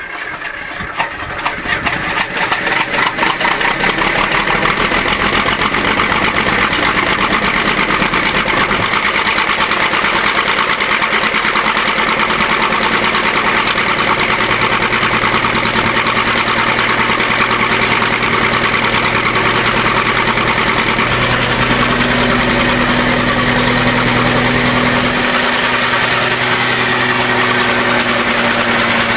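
Straight-six engine of a 1953 International TD20 crawler dozer, run on gasoline with the choke pulled, catching on a cold start: uneven firing for the first couple of seconds, then settling into a steady run, with the engine speed stepping up a few times later on. It exhausts through a freshly welded homemade manifold that is being checked for leaks.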